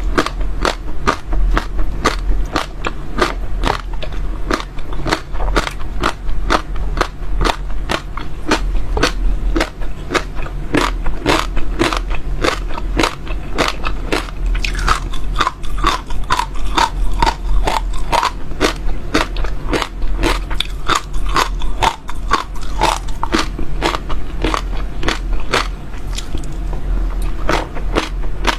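Close-miked chewing of crunchy seeds: a steady run of crisp cracks and crunches, about four a second, without pause, over a low steady hum.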